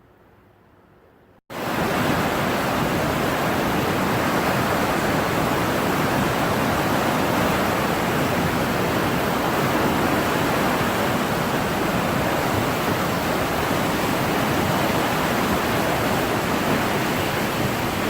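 Loud, steady rush of fast-flowing floodwater, cutting in abruptly about a second and a half in and holding even throughout.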